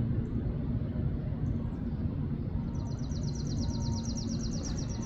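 A songbird singing a rapid trill of high notes, about nine a second and lasting about two seconds, starting a little before three seconds in, with a few faint short chirps before it. A steady low rumble runs underneath.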